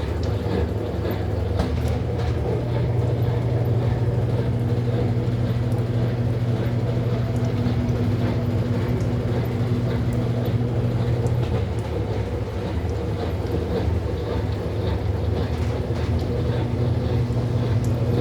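Consul Maré Super 10 kg (CWL10) top-loading washing machine running steadily through its final spin, the motor holding a constant hum and rumble.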